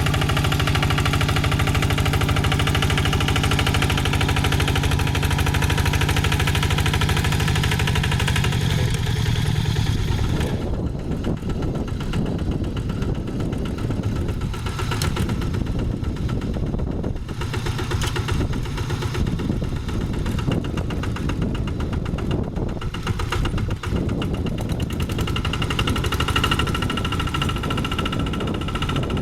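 Single-cylinder diesel engine of a two-wheel hand tractor running steadily. About ten seconds in, its sound turns rougher and less even, and it steadies again near the end.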